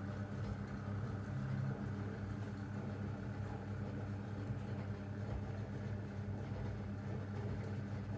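Zanussi washing machine running a 90 °C boil wash: a steady, low mechanical hum with a slight pulse to it.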